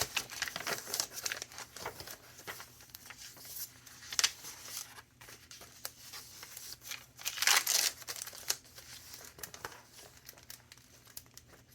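Thick paper pages of a handmade junk journal being turned and handled, rustling and crinkling irregularly, with louder page flips about four seconds in and again around seven and a half seconds in.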